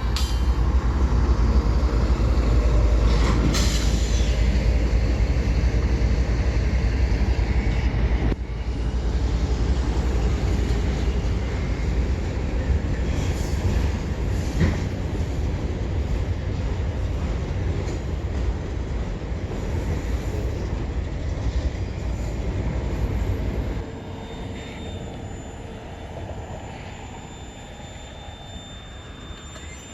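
Train rolling past on the rails with a loud, steady low rumble. The rumble drops off sharply about 24 seconds in, and faint high squealing tones from the wheels come through over the quieter tail.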